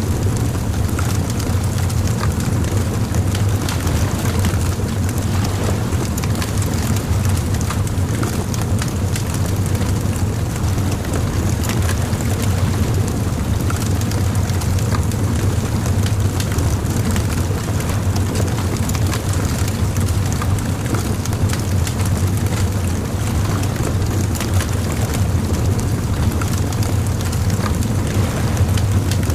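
Bonfire crackling, with many small sharp pops scattered over a steady low rumble.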